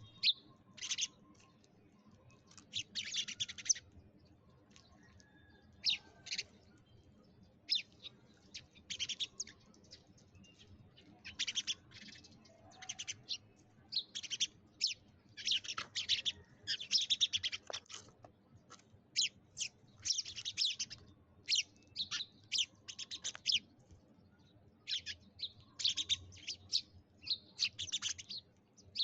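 Sparrows chirping: many short, quick chirps coming in irregular clusters, sometimes several birds overlapping.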